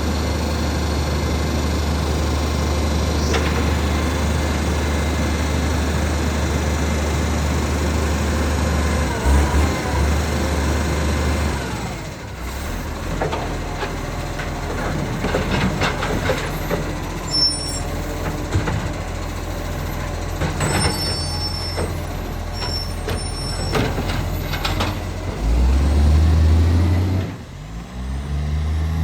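Acco garbage truck's diesel engine idling with a steady low drone, which changes abruptly about twelve seconds in, with a hiss typical of an air brake; mixed clatter follows. Near the end the engine revs up and the pitch climbs as the truck pulls away. The truck has a known exhaust leak.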